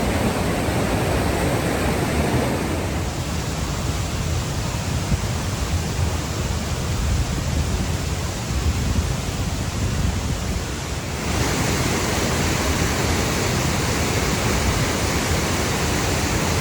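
Steady rushing of a waterfall and its fast stream: a loud, even hiss of falling water. The sound changes suddenly about three seconds in and again around eleven seconds in, brighter after the second change.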